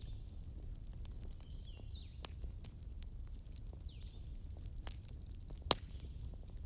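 Wood fire crackling, with scattered sharp pops, the loudest about five and a half seconds in, over a low steady rumble.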